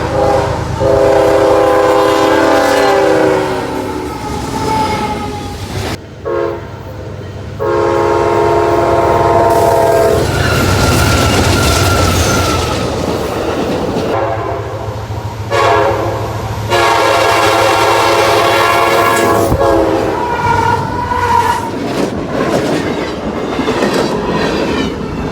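Freight locomotive air horn sounding a chord in several blasts, mostly long with one short one, over the low rumble of the approaching diesel locomotive and train, with rain hissing underneath.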